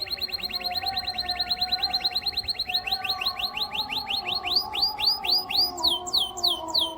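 Domestic canary singing a rapid trill of high, repeated rising notes, about ten a second. About three seconds in the trill slows to longer upswept notes, and near the end it changes to falling notes.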